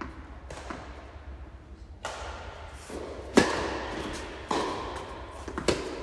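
Tennis ball being hit and bouncing on a hard court: a few sharp pocks about a second apart. The first and loudest comes about halfway through, and a quick pair follows near the end.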